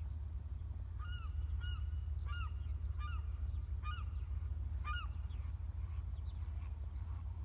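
Birds calling from the shore: a quick series of short calls that each rise and fall in pitch, some in pairs, between about one and five seconds in, over a steady low rumble.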